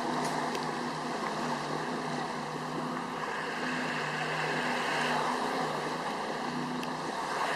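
Boat engine running steadily, a low hum under the rush of wind and water.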